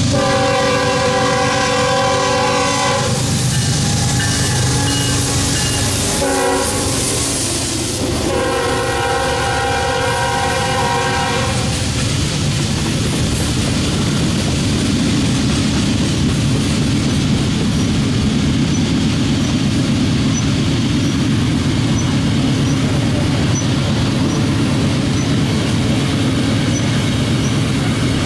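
BNSF freight train sounding its multi-chime air horn as it approaches, with long blasts and a short one, the last ending about twelve seconds in. The locomotives then pass and a long string of loaded tank cars rolls by with a steady rumble and clickety-clack of wheels over the rail joints.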